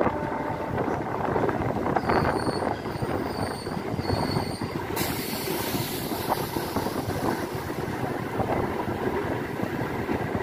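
MEMU train running at speed, heard from an open coach door: a steady rumble and rattle of wheels on the rails. Three short high squeals come between about two and five seconds in.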